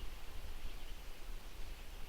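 Forest ambience: a low wind rumble on the microphone, with faint short high chirps from a distant bird now and then.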